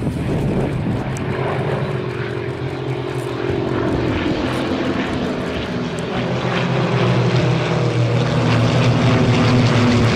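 Propeller aircraft engine running steadily in flight, growing louder in the second half as the plane comes closer.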